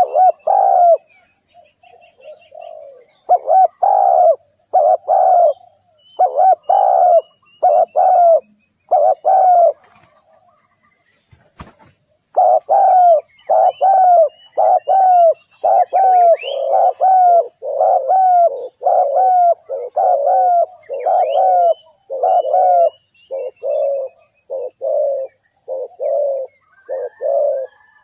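Spotted dove cooing over and over, a series of short low notes in groups, with a pause of about two seconds in the middle before the calling resumes faster.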